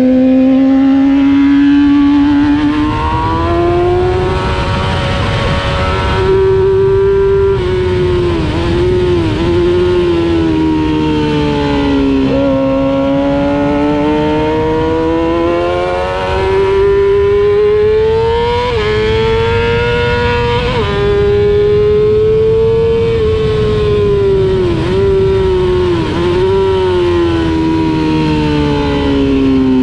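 Racing motorcycle engine heard from an onboard camera, revving up and down as the bike is ridden hard on track. The pitch climbs and falls repeatedly, with quick dips and sudden drops at the gear changes, over a low rush of wind.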